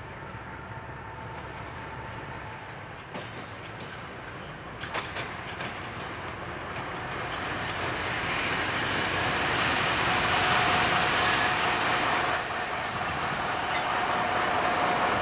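D1 diesel multiple unit approaching and passing close by on jointed track, its running noise growing steadily louder over the first ten seconds and then staying loud. About twelve seconds in, a high steady squeal sounds for a couple of seconds as the cars go by.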